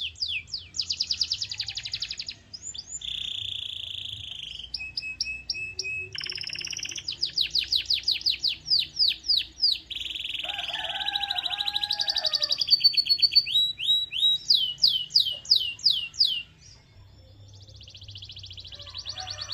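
Domestic canary singing a long song of fast trills, each a rapid run of one repeated note that changes to a new one every second or two, with some rolling, buzzy passages. It falls to a brief lull near the end, then starts up again.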